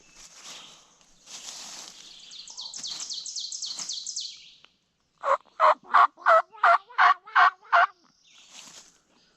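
A series of nine loud turkey yelps, evenly spaced about three a second, starting about five seconds in. Before them a small bird sings a fast, high trill.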